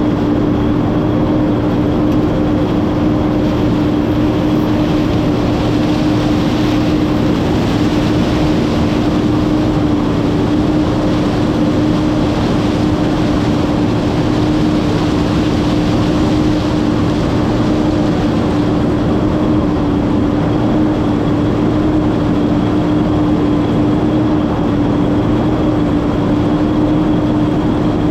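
Massey Ferguson 9690 combine running steadily while shelling corn: a constant drone with a steady hum running through it.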